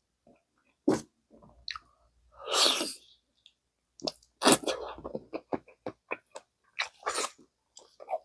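Close-miked eating of gamjatang, pork-bone and potato stew: wet chewing and sharp mouth clicks, with one longer, louder noisy burst about two and a half seconds in. The chewing and clicking grow denser from about halfway through.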